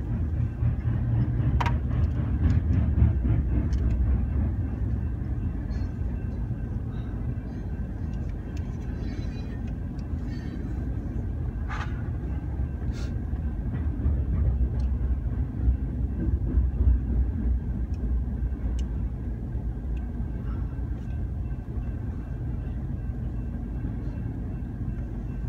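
Freight train rolling past: a steady low rumble from the cars that swells twice, with scattered sharp clicks from the wheels and a faint steady high tone.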